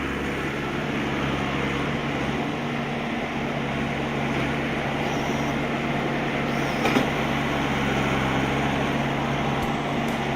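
A heavy vehicle's engine running steadily, a constant low hum with a rumbling noise over it, and a single brief tap about seven seconds in.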